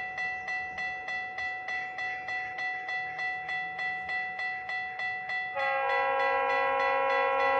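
Crossing warning bell ringing steadily at about four strokes a second as a departing GO Transit commuter train approaches. About five and a half seconds in, the train's horn sounds one loud blast of about two seconds, several notes at once, a horn the railfans call terrible.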